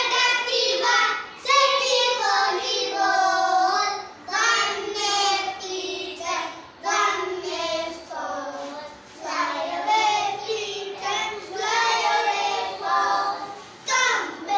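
Young children singing a short rhyme, with held sung notes and brief breaths between phrases.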